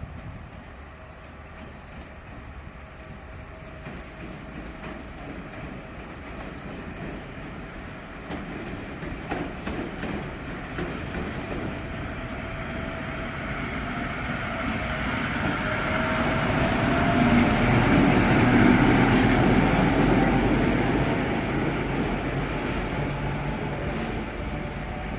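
ST44 (M62-type) diesel locomotive running light, its two-stroke V12 diesel growing steadily louder as it approaches, passing closest about three-quarters of the way through, then fading as it draws away. Some wheel clatter on the rails can be heard.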